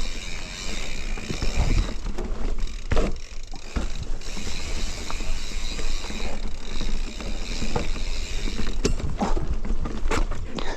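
Mountain bike moving over a dirt trail: tyre noise and drivetrain and frame rattle, with scattered sharp clicks and knocks.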